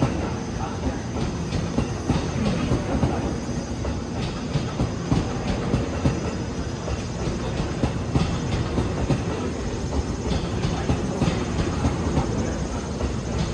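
Tokyo Metro 18000 series electric train rolling slowly past the platform, with a steady rumble and many irregular clicks from the wheels running over rail joints.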